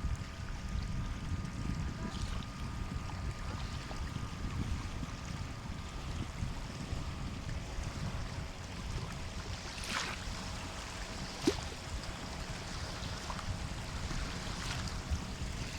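Sea waves on a shore: a steady low rumble of surf, with brief hissing wash about ten seconds in and again at the end. A single sharp click sounds shortly after the first hiss.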